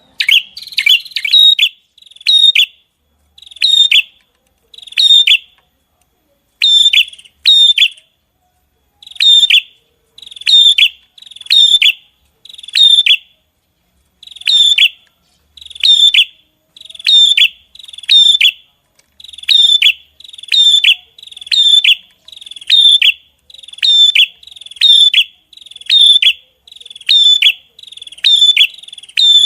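A small songbird's sharp, piercing call notes, repeated about once a second and often in quick pairs. Each note is identical, with a quick downward flick in pitch.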